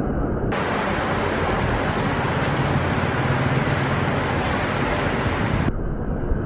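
Steady rushing roar of river rapids, with a low rumble underneath. About half a second in it turns into a bright full hiss, then drops back to a duller rumble near the end.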